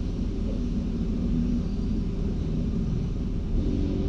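Automatic car wash machinery running, a steady low rumble heard from inside the car's cabin while the wash applies chemical.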